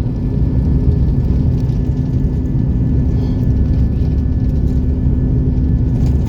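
Airliner cabin noise during takeoff and initial climb: the engines at full power give a loud, steady rumble with a constant hum and a faint high whine.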